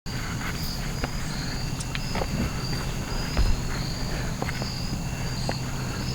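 Insects chirping in a steady pulsing trill over a low hum, with scattered light clicks and taps of handling.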